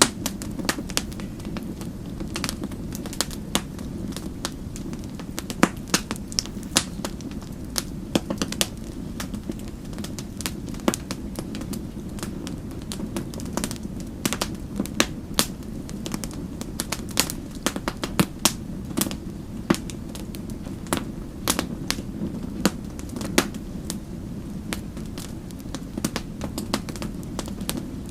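Wood fire crackling in a fireplace: a steady low hiss of burning with frequent sharp, irregular pops and snaps.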